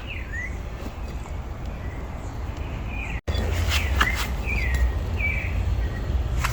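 Birds chirping: a handful of short, downward-sliding call notes scattered through, over a steady low rumble.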